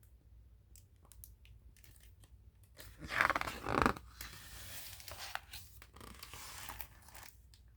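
Paper handling: a picture book's page being turned, a few light clicks and then a loud swishing rustle of paper about three seconds in that fades into softer rustling.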